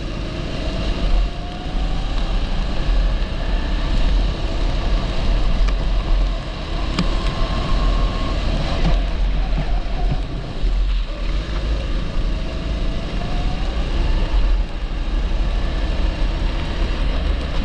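A 270cc kart engine running at racing speed, its pitch rising as it accelerates out of corners near the start and again near the end and dropping briefly in between, with a heavy wind rumble on the microphone.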